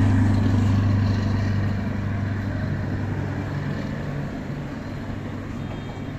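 A vehicle engine running with a steady low hum over background noise, slowly fading away.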